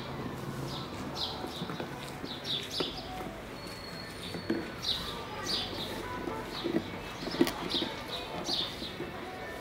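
Small birds chirping over and over: short, high, falling chirps about two a second. A few dull thuds and one sharp click about seven seconds in.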